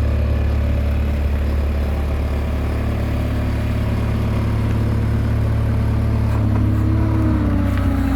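New Holland L213 skid steer's diesel engine running steadily, its revs rising a little about six and a half seconds in.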